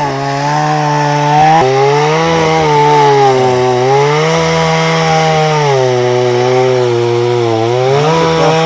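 Two-stroke chainsaw running at high revs while cutting a thick jatobá log, its pitch sagging as the chain bites into the hardwood and climbing again as it frees, several times over.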